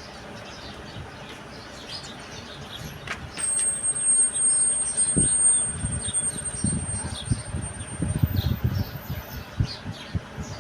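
Birds chirping, with a thin steady high whistle for about five seconds. Through the second half come a run of low knocks and rustling, the loudest sound here.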